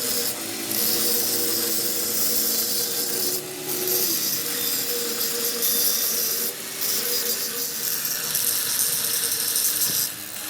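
A power tool working on metal: a steady, harsh grinding hiss that dips briefly about every three seconds.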